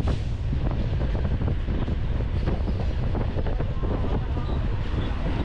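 Wind buffeting the microphone over the low rumble of a local train coach rolling along a platform, with its wheels knocking over the rails.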